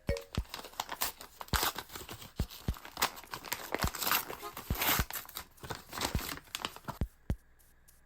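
Packaging crinkling and tearing, with many sharp clicks and taps, as a parcel is unwrapped by hand.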